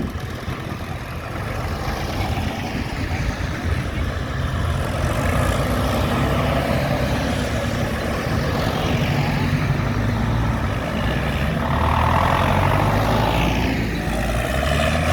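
Diesel engines of tractors and other vehicles running as they drive past. The engine pitch shifts as they go, and the sound is loudest about twelve seconds in.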